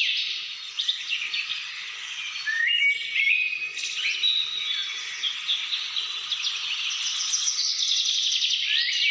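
Many birds singing and chirping together in a dense chorus of rapid high notes, with short rising whistled phrases breaking through now and then.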